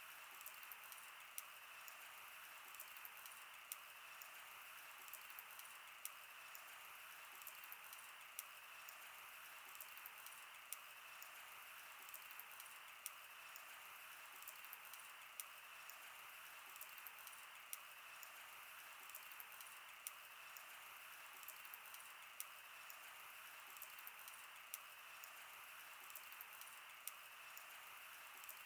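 Campfire burning: a faint steady hiss with irregular sharp crackles and pops of the burning wood.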